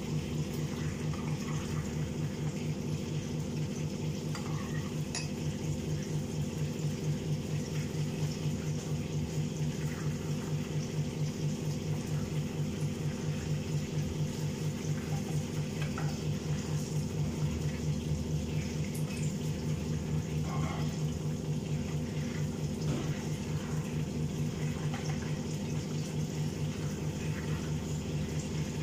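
Chicken frying in oil in a wok over a gas burner: a steady sizzle with occasional scrapes and clinks of the metal ladle against the pan, over a steady low mechanical hum.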